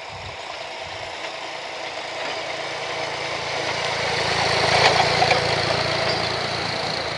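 Massey Ferguson 266 tractor's diesel engine running steadily, growing louder, loudest about five seconds in, then easing off slightly.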